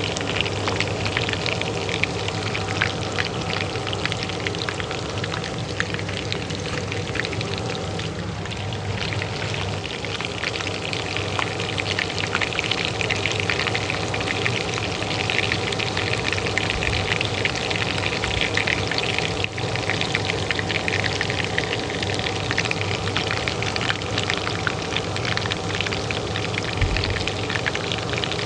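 Oil frying in a pan, a dense, steady crackle and spatter, over the steady hum of a kitchen range hood fan.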